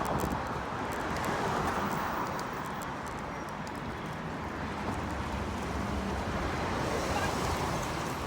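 Wind rushing over the microphone, a steady noise with a low rumble.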